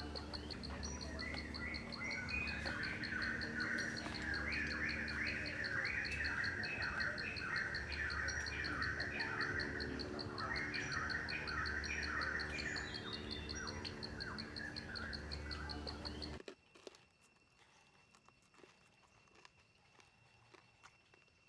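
Birds chirping in quick repeated calls over an insect's steady, fast-pulsing high trill, with a low hum beneath. All of it cuts off suddenly about sixteen seconds in, leaving a much quieter background with faint clicks.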